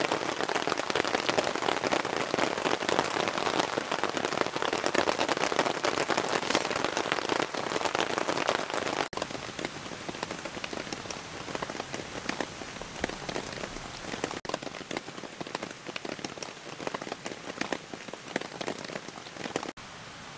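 Heavy rain falling steadily, a dense hiss of countless separate drop hits. It drops abruptly to a softer level about nine seconds in.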